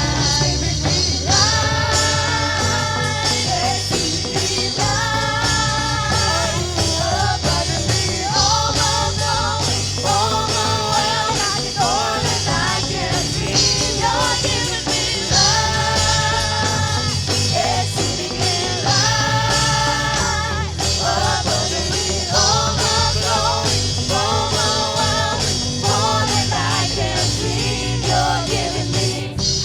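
Live worship music: a band with a steady bass line accompanying voices singing a praise song in phrases.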